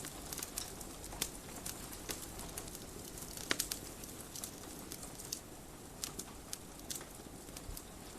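Wood fire crackling in a fireplace: irregular sharp pops and snaps, the loudest about three and a half seconds in, over a steady hiss.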